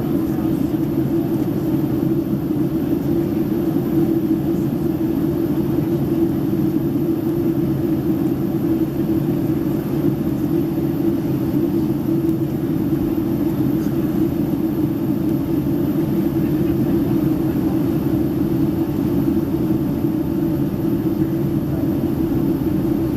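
Steady cabin noise inside a Boeing 767-300ER in flight: an even, low drone of engines and rushing air that does not change.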